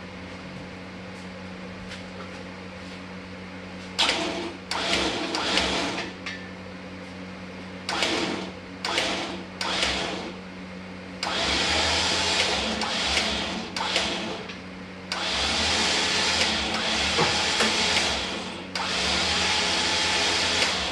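A noisy tool run in bursts over a steady low hum: several short bursts, then three longer runs of several seconds each.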